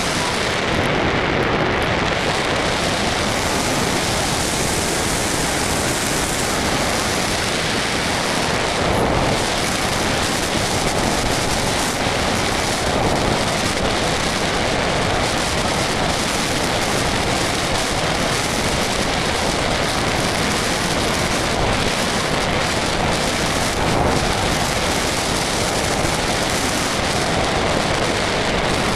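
Steady, loud wind rush buffeting the microphone of a small camera carried on an RC model plane in flight.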